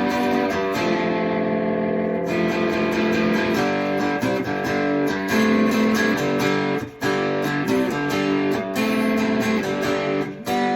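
Three-string cigar box guitar being strummed and picked, chords ringing and changing every second or two, with brief pauses about seven seconds in and just before the end.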